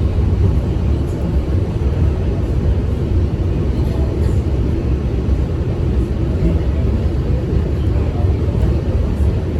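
New York City subway train in motion: a steady, loud low rumble with wheel and track noise.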